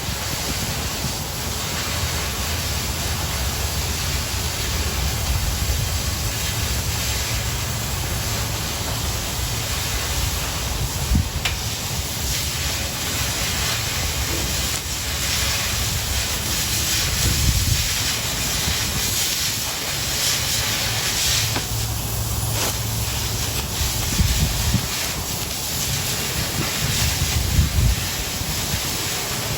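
Oxy-fuel cutting torch hissing steadily, cutting steel plate, with a low rumble under the hiss and a few brief pops.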